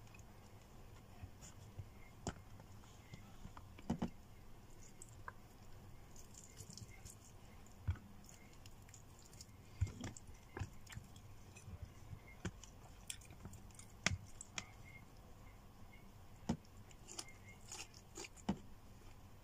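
A person eating chicken and vegetables with her hands close to the microphone: chewing and mouth sounds with irregular sharp clicks and smacks.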